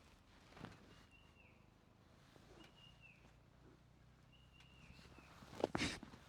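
A bird repeating a short whistled call three times, each note ending in a downward slide, about every second and a half. A loud thump near the end, and a smaller knock about half a second in.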